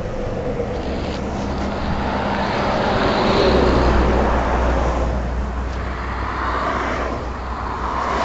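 Highway traffic rushing past the roadside, with one vehicle passing close and loudest about three to four seconds in, its pitch dropping as it goes by.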